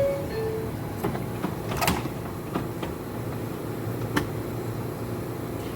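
R142 subway car door chime sounding two descending tones, then the doors sliding shut with a series of clunks and knocks, the loudest about two seconds in. The train's steady equipment hum runs underneath.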